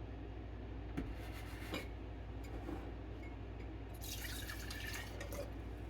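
White vinegar being poured from a bottle, a pouring splash starting about four seconds in and lasting over a second, after two light clicks.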